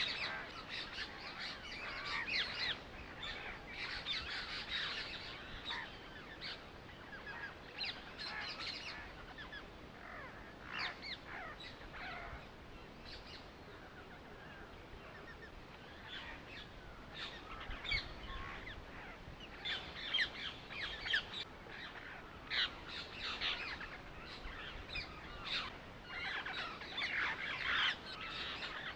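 Small birds chirping: many short calls overlapping, in busier and quieter stretches.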